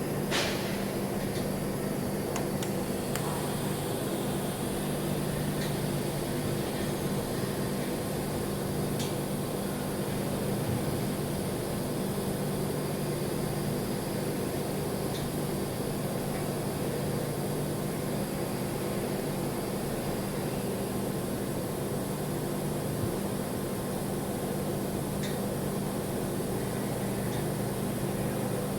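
Steady hum with an even hiss over it, typical of welding equipment or its cooling fan running, broken by a few faint clicks.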